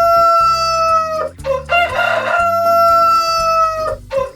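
Rooster crowing: one long cock-a-doodle-doo ends about a second in, a second follows from about a second and a half, and a third starts right at the end.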